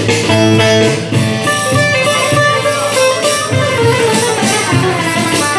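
Instrumental break of a Turkish folk song played live: a bağlama plays a melody of quick plucked notes over a band's steady bass and drum beat.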